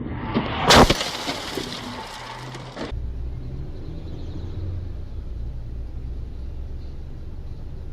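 A car collision: a loud crash about a second in, followed by a couple of seconds of crunching and breaking noise. Then a steady low rumble of a vehicle running on the road.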